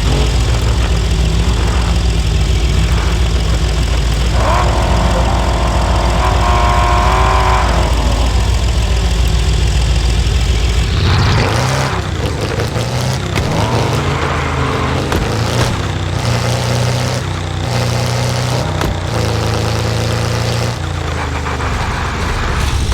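A car engine running, with the sound changing character about eleven seconds in.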